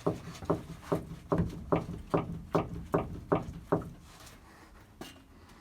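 Worn centre steering link of a Zhiguli (VAZ) knocking as it is rocked back and forth by hand: about ten regular knocks, roughly two and a half a second, stopping about four seconds in. The play in the link's joints is the sign that the link is worn out and the cause of the suspension knock.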